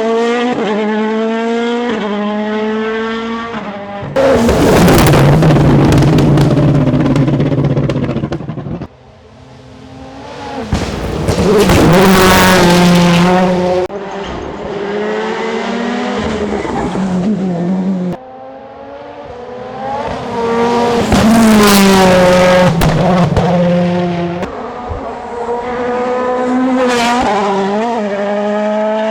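2017 Toyota Yaris WRC rally car's 1.6-litre turbocharged inline-four driven hard, its pitch climbing through quick gear changes and dropping again, with several very loud stretches as the car goes flat out. The sound changes abruptly a few times between shots.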